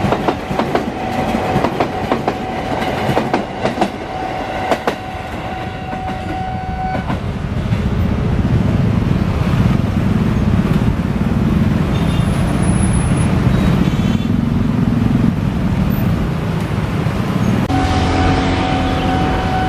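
Electric commuter train, a former JR 205 series set, passing close by with its wheels clicking over the rail joints while a level-crossing warning bell rings steadily. The bell stops about 7 s in and a loud low rumble follows. The bell starts ringing again near the end, signalling the next train.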